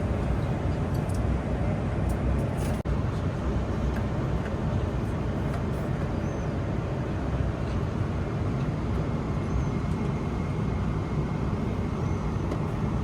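Steady low cabin roar of a Boeing 777-300ER airliner in flight, the even rush of airflow and jet engines heard from a business-class seat.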